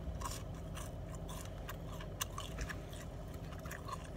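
A person chewing a mouthful of French toast stick: a run of irregular soft clicks and smacks over a steady low hum.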